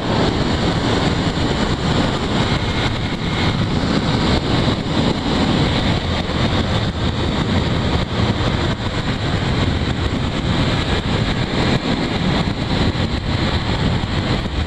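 Motorcycle riding at road speed: a steady rush of wind over the microphone with the engine running underneath, no change in pace.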